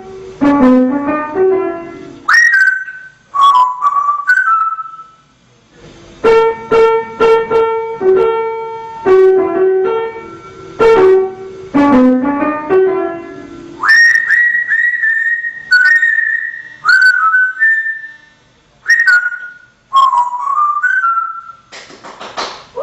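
A short melody of struck keyboard-like notes alternating with a parrot whistling phrases in reply: clear whistled notes that swoop up at their start and then hold. The melody plays at the start and again for several seconds in the middle, and the parrot whistles after each run.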